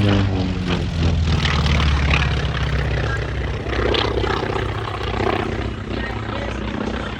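Propeller aircraft engine passing by, its pitch dropping as it goes past, then a steady low drone.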